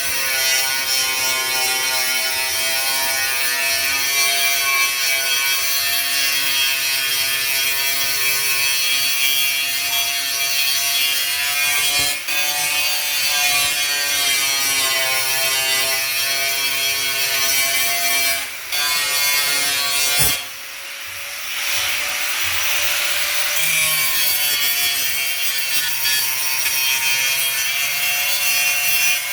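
Handheld electric power tool, such as a grinder or sander, running under load, its motor whine wavering in pitch as it works. About twenty seconds in it stops briefly, and a couple of seconds of hissing, rasping noise follow before the whine resumes.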